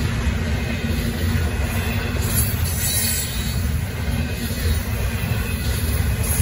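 Union Pacific double-stack intermodal freight cars rolling past at a grade crossing: a steady heavy rumble of steel wheels on the rails, with a brief high hiss about two and a half seconds in and again near the end.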